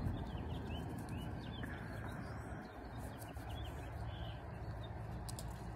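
Small birds chirping faintly in short, quick notes, in two brief runs, over a low steady rumble.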